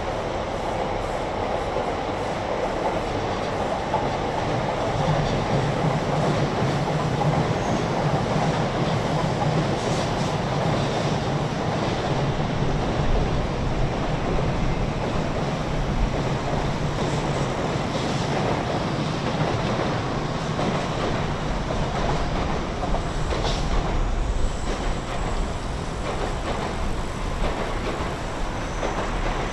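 A train running past, a steady rumble of wheels on track with a low drone that comes in a few seconds in and fades about halfway through.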